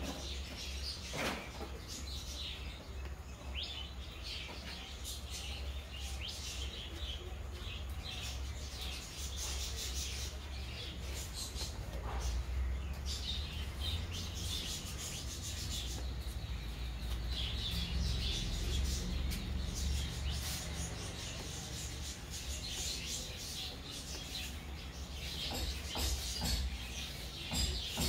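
Small birds chirping and twittering in short scattered calls over a steady low rumble.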